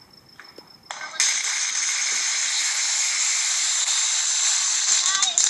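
A firework going off with a loud, steady hiss of spraying sparks, like a ground fountain, starting about a second in, with a few short whistles near the end.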